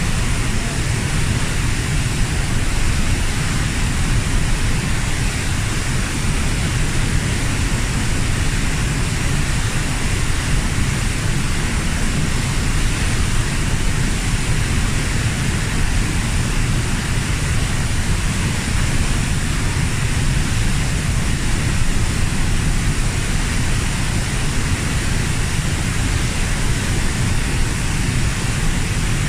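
Kozjak waterfall, about 15 m high, pouring steadily into its plunge pool: an even, unbroken rush of falling water.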